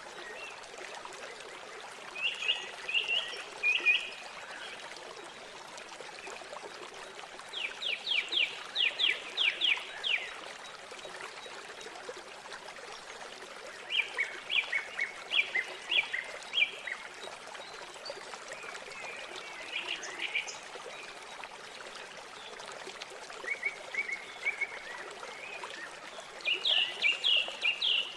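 A songbird singing short phrases of rapid repeated notes, about six of them a few seconds apart, over the steady rush of flowing river water.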